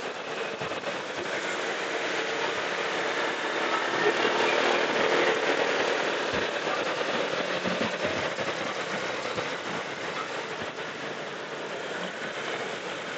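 Road noise from a motorcycle riding in traffic: a steady rush of wind, tyres and engines that grows louder about four to six seconds in, then eases.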